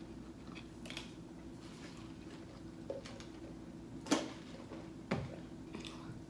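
Eating and handling of chicken nuggets and their boxes: a few soft clicks and taps, the sharpest about four seconds in and another a second later, over a faint steady hum.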